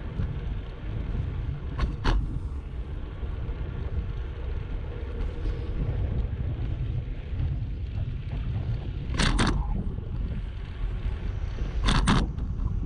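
Steady low wind buffeting and rolling noise on a GoPro microphone during a bicycle ride, broken by a few short sharp knocks, about two seconds in, past the middle and near the end.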